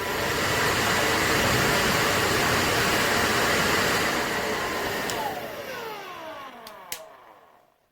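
1875-watt Wavytalk ionic hair dryer blowing steadily, getting slightly louder near the start. About five seconds in it is switched off: the airflow dies away and the motor winds down with a falling whine, and a couple of sharp clicks come just before it goes quiet.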